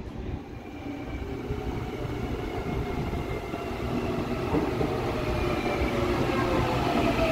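CPTM electric multiple-unit commuter train pulling into the station, its rumble growing steadily louder as it nears. From about halfway through, a whine falls in pitch as the train slows.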